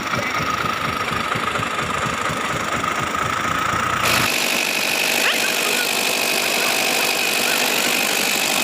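A vehicle engine running with a rapid low pulse and a steady whine. About four seconds in the sound cuts abruptly to a steady higher whine over a hiss, with the low engine pulse gone.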